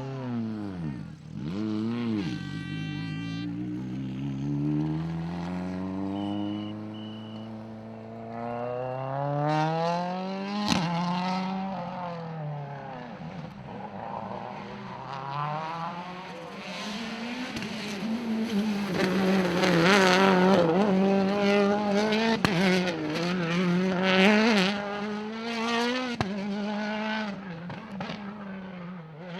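Rally car engine revving hard, its pitch climbing and dropping again and again through gear changes. It grows louder toward the middle and late part, held high and wavering there, with a sharp crack about a third of the way in.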